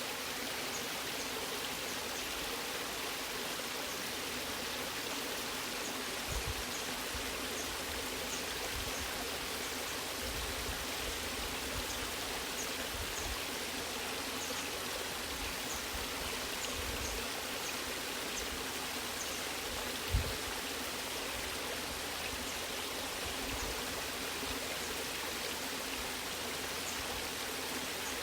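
Waterfall: water rushing steadily, with an occasional low thud, the loudest about twenty seconds in.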